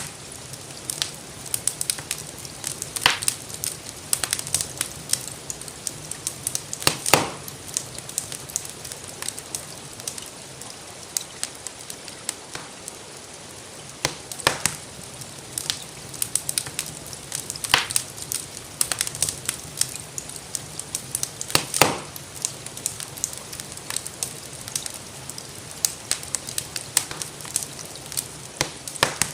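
Wood fire crackling in a fireplace: irregular sharp snaps and pops, a few louder ones every few seconds, over a steady soft hiss that may hold gentle rain.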